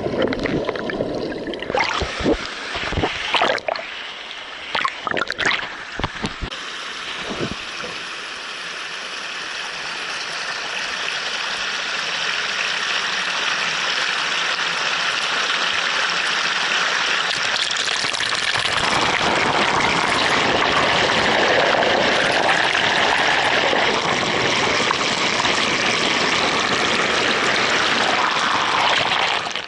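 Mountain stream rushing over rocks, a steady noise of running water that grows gradually louder and then holds. A few sharp knocks sound over it in the first several seconds.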